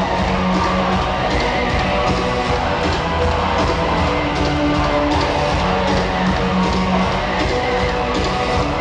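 Live rock band playing with distorted electric guitars and drums, heard through a loud, dense arena mix.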